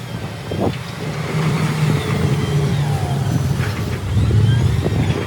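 Heavy machinery's diesel engine running steadily, with a short knock about half a second in.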